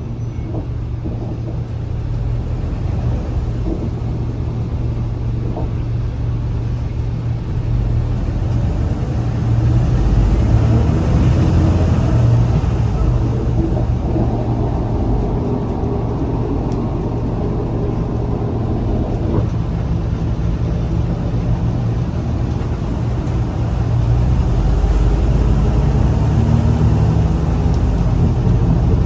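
Scania L94UA articulated bus running, a steady low engine hum that builds up twice, about eight seconds in and again near the end, as the bus accelerates.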